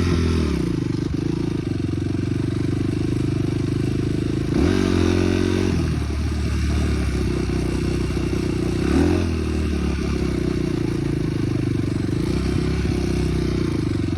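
Dirt bike engine running under way, steady with brief rises in revs about four and a half and nine seconds in.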